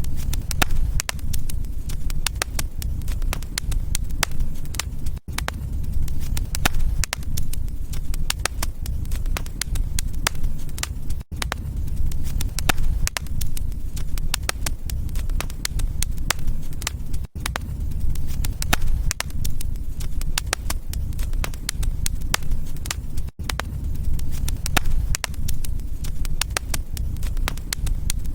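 Wood fire burning in a fireplace, crackling and popping in dense sharp clicks over a low steady rumble. The sound cuts out for a split second about every six seconds.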